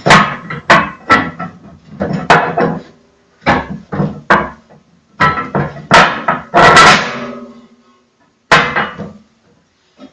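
Heavy cast-iron stove parts clanking against the cast-iron grate as a piece is fitted into its slots: a run of sharp metallic knocks, each ringing briefly.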